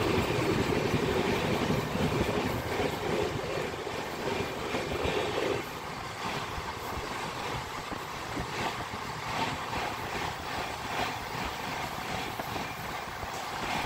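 Passenger train coaches passing close at speed: a continuous rumble of wheels on rails that drops in level about five and a half seconds in, then carries a run of clicking and clattering.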